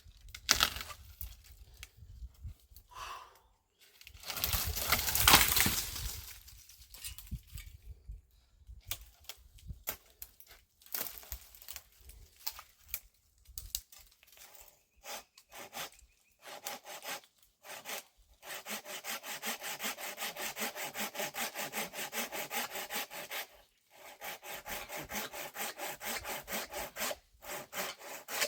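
Rapid, even back-and-forth rasping strokes, about five a second, in two long runs in the second half, after scattered knocks and scrapes and a louder scraping rush about five seconds in.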